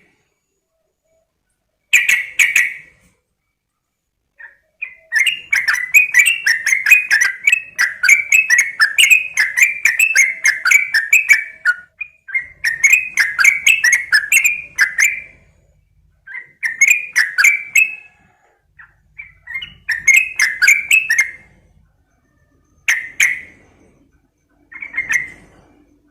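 Sooty-headed bulbul (trucukan) singing in phrases of rapid, chattering warbled notes. The first long run lasts about seven seconds, followed by shorter phrases separated by brief pauses.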